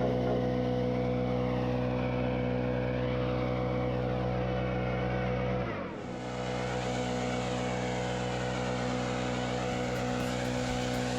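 Diesel engine of a piece of earthmoving equipment running steadily, with a short dip in level about six seconds in before it carries on.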